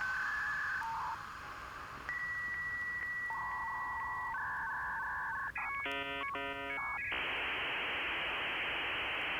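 Electronic telephone-line tones: a series of steady beeps at different pitches, then about a second of several tones pulsing on and off together, then about seven seconds in a steady hiss takes over.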